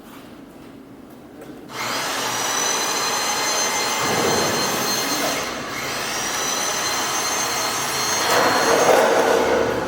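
Electric chain hoist motor running under load with a steady high whine. It starts about two seconds in, stops briefly midway, then starts again.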